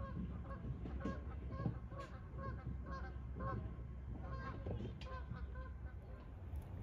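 Birds calling: a rapid series of short, repeated calls, several overlapping, that thin out about five seconds in.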